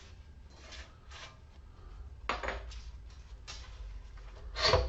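Small metal scrap parts clinking and clattering as they are handled and dropped into bins, a few short knocks with the loudest one near the end, over a faint low hum.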